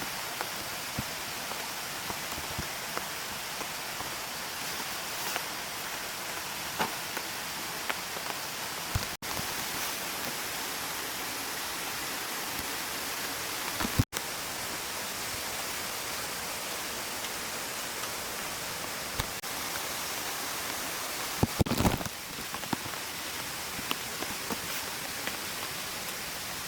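A steady rush of water noise with scattered small sharp ticks, and a short cluster of knocks about three-quarters of the way through. The sound cuts out for an instant twice near the middle.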